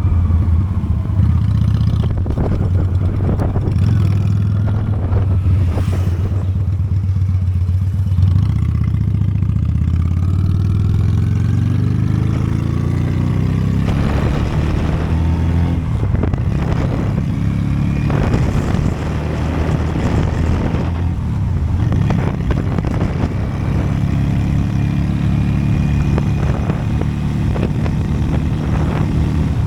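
Honda Steed V-twin motorcycle engine running steadily on the road, rising in pitch as it accelerates about ten seconds in.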